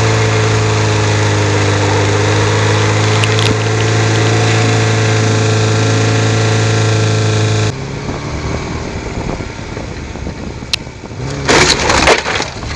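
Ford Fiesta engine running steadily under load while driving over rough grass, heard close to the front wheel; its pitch dips slightly and recovers. About two-thirds through, it cuts to a quieter, rougher mix of engine and ground noise, with loud irregular bursts of noise near the end.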